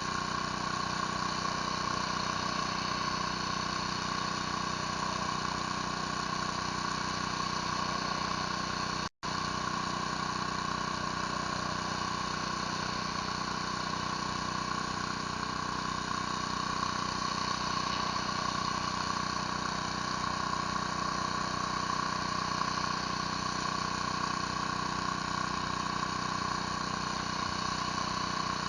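Pressure washer running steadily, its engine droning under the hiss of a surface cleaner spraying concrete. The sound cuts out for an instant about nine seconds in.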